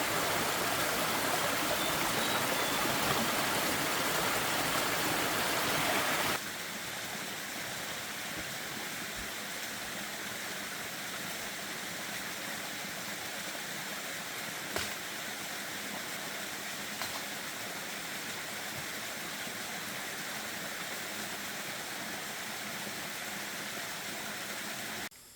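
Steady rushing of flowing water. It drops abruptly to a quieter level about six seconds in, with a couple of faint clicks later on.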